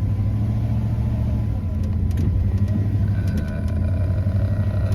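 Pickup truck's engine running steadily under heavy load as it struggles up a slick, muddy hill, losing momentum, with a few faint scattered clicks.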